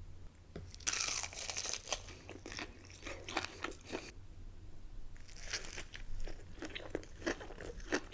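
A person biting and chewing crunchy food, an irregular run of crunches and chewing clicks.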